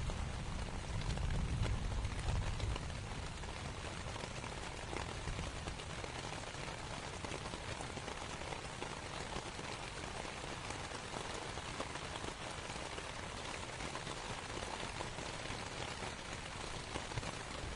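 Steady rain pattering on a canvas tent, with the low rumble of distant thunder dying away in the first few seconds.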